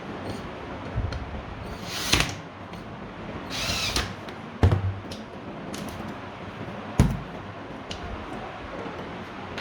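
Hand work with tools on ceiling fan parts: a few separate sharp knocks, the loudest about halfway and two-thirds through, a short scraping sound a little before the middle, and small clicks in between.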